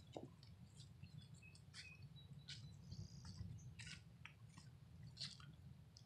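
Near silence, with faint scattered short bird chirps and calls over a low steady rumble.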